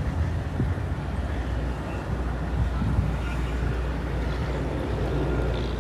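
Steady low mechanical rumble, like engines or traffic running nearby, with a faint even background noise.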